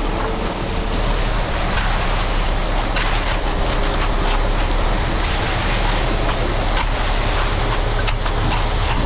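Ready-mix concrete truck running during a pour, with a steady rushing wash of noise and a few scattered sharp clicks.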